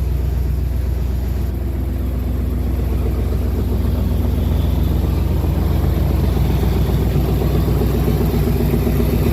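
2001 Ford F-250's 5.4-litre V8 gasoline engine idling steadily, with an even low running note.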